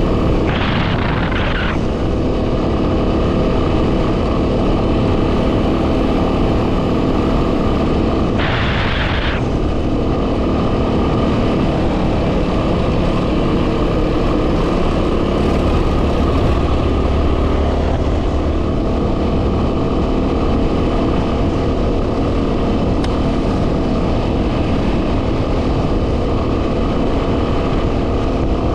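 2010 Yamaha WR250R's single-cylinder 250 cc four-stroke engine running steadily under way, buried in heavy wind noise on the microphone. Two short hissing bursts, about half a second in and about eight and a half seconds in.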